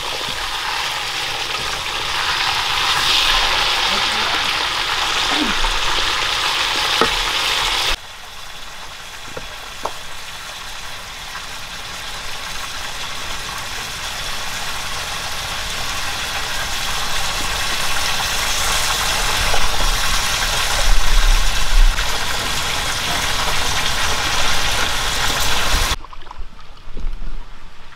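Whole fish sizzling in hot oil in a pan while a wooden spatula moves them. About eight seconds in, the sizzle cuts off suddenly, giving way to a quieter, steadier hiss with a few small clicks.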